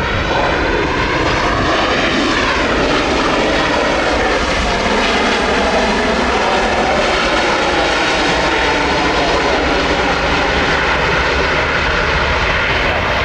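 An airliner passing close by, its engines loud and steady, with a whooshing tone that sweeps slowly up and down as it goes past.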